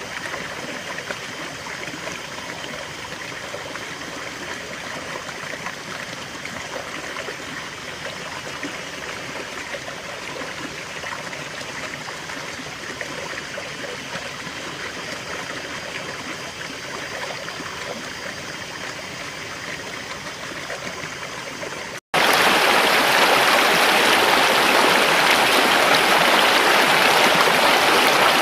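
Flowing river water running steadily. About three-quarters of the way through it cuts abruptly to a much louder, brighter rush of water.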